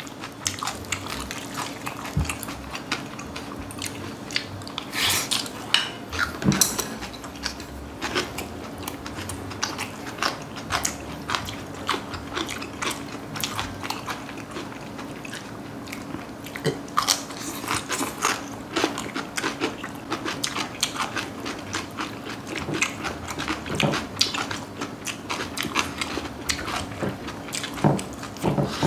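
Close-miked chewing and crunching of bibimbap made with raw young radish greens (yeolmu), many short crisp bites and crackles throughout, over a faint steady hum.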